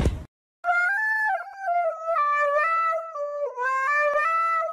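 Husky howling into a handheld karaoke microphone. It gives one long wavering howl that steps up and down in pitch, starting about half a second in, with brief dips between phrases.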